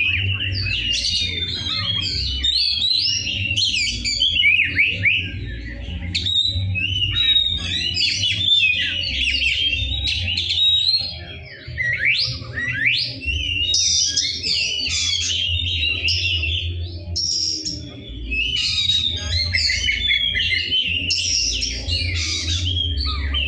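Oriental magpie-robin (kacer) singing without pause, a rapid run of varied whistles, trills and harsh, rough notes, with brief breaks about a third and three quarters of the way in. A low steady hum runs underneath.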